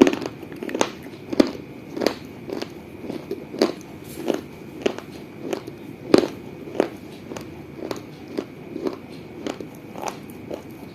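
Teeth biting and crunching pieces of a small baked-clay piggy bank, one sharp crunch about every half second.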